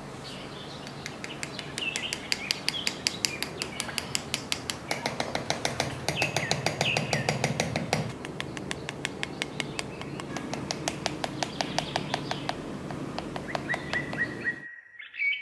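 Birds chirping over a rapid, even ticking of about four ticks a second. Both stop suddenly near the end.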